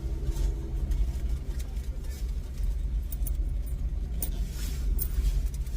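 Car engine idling with a steady low rumble, with a few light clicks and rattles between about three and five seconds in.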